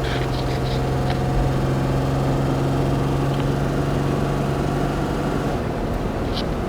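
Vehicle engine running at a steady speed with a low hum that eases off about five and a half seconds in. A few short high squeaks or ticks come near the start and near the end.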